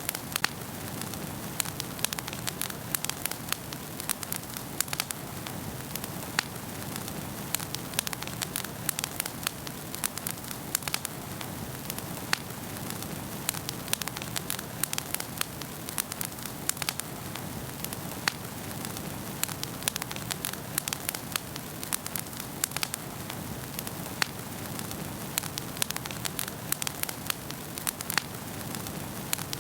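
Wood fire burning in a fireplace: a steady low rush of flames under many sharp, irregular crackles and pops.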